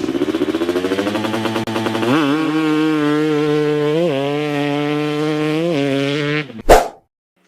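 Two-stroke dirt bike engine revving up, its pitch climbing over about two seconds, then held at high revs with two brief blips of the throttle. It ends in one sharp, loud hit and then cuts to silence.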